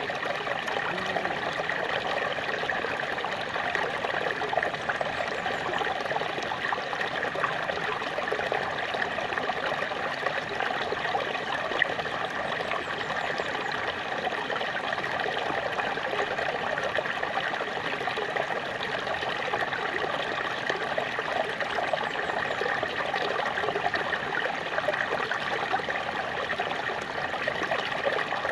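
Small waterfall: water pouring and splashing steadily over rocks, a continuous even rush with a busy splashing texture and no pauses.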